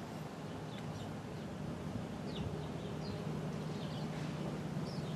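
Outdoor ambience: scattered short, high bird chirps over a low steady hum.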